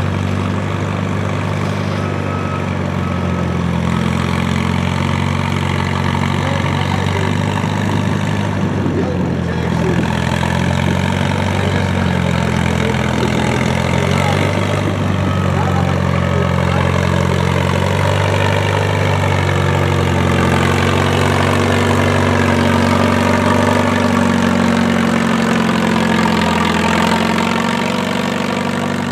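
Antique farm tractor engine running steadily at an even pitch, growing a little louder past the middle and easing off near the end.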